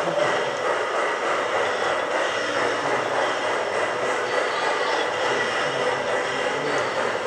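Steady, even rushing background noise with no distinct events, and a faint steady high tone running through it.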